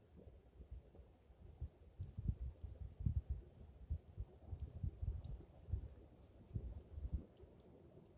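Wood fire crackling with small, sparse pops, under a louder, irregular low rumble of wind buffeting the microphone that swells in the middle of the stretch and eases near the end.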